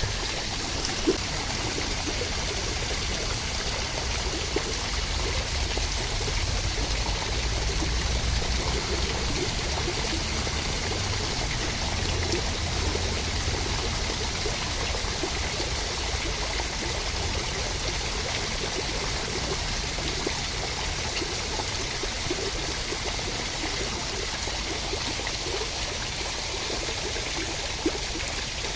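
Steady rushing water noise with a low rumble underneath and a few brief taps.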